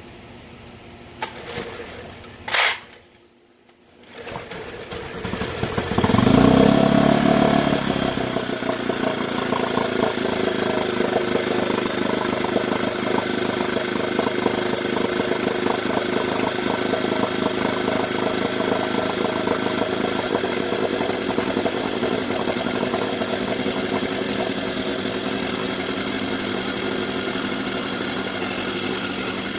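Small Mercury outboard motor being restarted: a sharp pull about two and a half seconds in, then the engine catches a couple of seconds later, surges, and settles into a steady fast idle, which the owner means to turn down.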